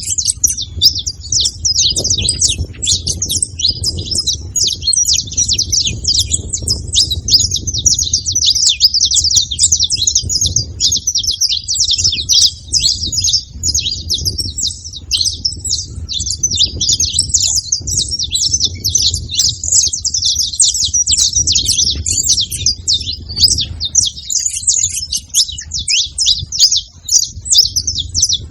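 Several saffron finches chirping and calling together in a dense, unbroken chatter of rapid high notes, over a low background rumble.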